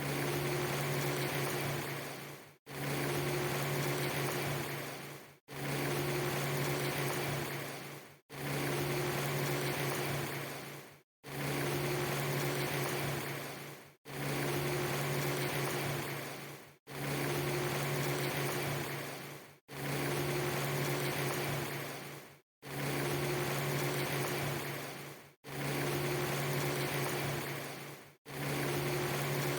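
Steady rushing noise with a low hum underneath, cut into a loop of under three seconds: each repeat fades and drops out to silence for an instant, about ten times in a row.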